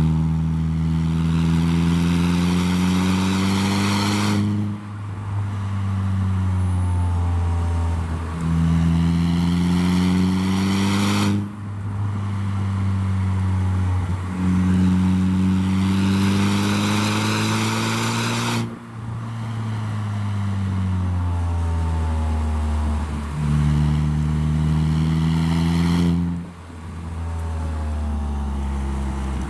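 Saab 9-3 running through a handmade stainless-steel exhaust with a switching valve, the engine note climbing under acceleration. It breaks off sharply about every seven seconds, four times, and each time starts again at a lower pitch, like a series of upshifts.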